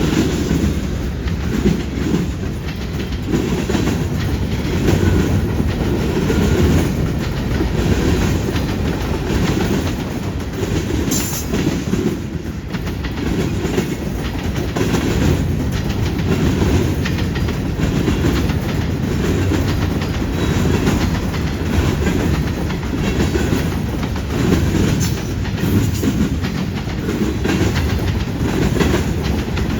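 CN freight train rolling past, its cars' steel wheels clicking steadily over the rail joints with a continuous low rumble.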